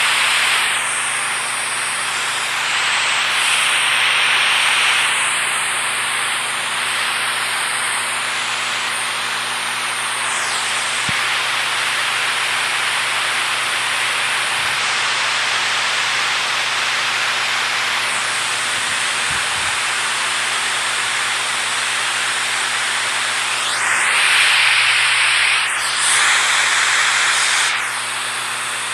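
Water rushing steadily. There are brief louder swells of hiss about three to five seconds in and again near the end.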